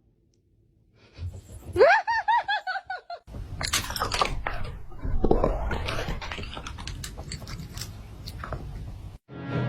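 A short, high, wavering call, then several seconds of irregular crunching and chewing.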